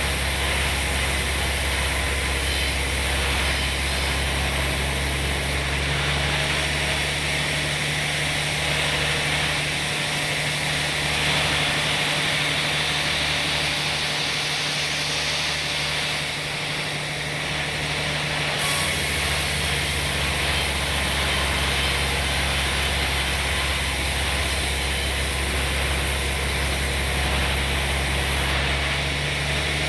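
Sawmill machinery running steadily: a low engine hum under a broad saw hiss. The low hum weakens for several seconds midway while the hiss grows a little brighter.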